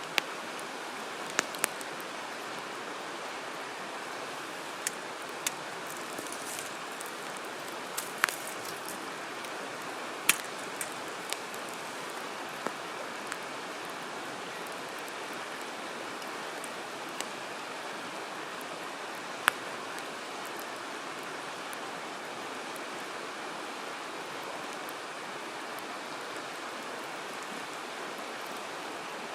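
Wood campfire crackling, with a dozen or so sharp single pops scattered through the first twenty seconds, the loudest about eight, ten and nineteen seconds in, over a steady rushing hiss.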